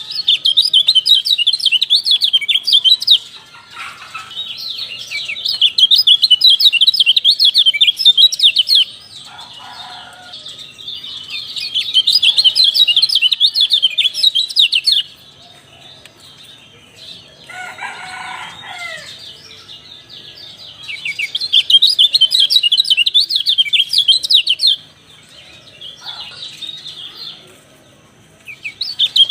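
Kecial songbird singing rapid, high twittering phrases in bursts of about three to four seconds, with short pauses between them. A lower, different bird call sounds once in a pause about halfway through.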